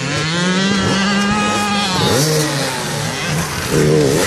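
Motocross dirt bike engine revving hard under acceleration: the pitch climbs, holds high, then falls off about two seconds in and runs lower.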